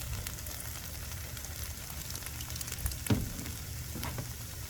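Chicken, onion and bell pepper filling sizzling and crackling steadily in a frying pan, with two short knocks about three and four seconds in.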